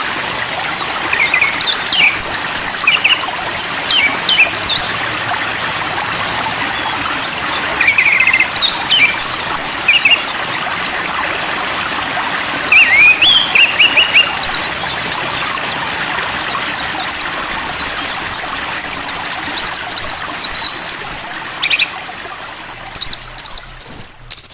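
Songbirds chirping in short repeated phrases over a steady hiss. The hiss fades near the end and the sound cuts off.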